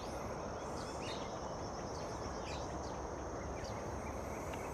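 Outdoor park ambience: a steady background rumble with scattered short bird chirps and a faint steady high-pitched hiss.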